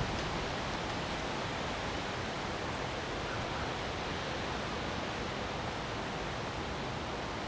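Storm wind rushing steadily through trees, an even hiss with no distinct gusts or thumps.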